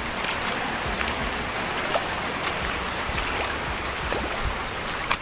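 Steady outdoor rushing noise, like wind on the microphone, with scattered light clicks and rustles.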